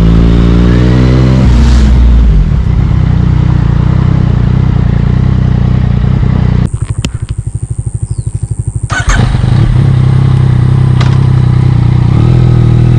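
Sport motorcycle engine accelerating, its pitch climbing through the first second and a half, then running hard. About two-thirds of the way in the throttle closes for a couple of seconds and the exhaust pulses evenly as the revs fall, then it pulls hard again.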